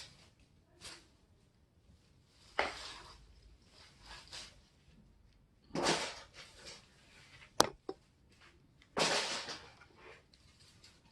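Handling noises: three short scraping rustles about three seconds apart, and one sharp click between the second and third.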